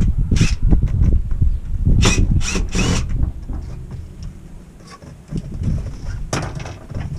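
Hand-tool work on a shower valve's handle trim: short scraping, rattling bursts of metal on metal, over a steady low rumble.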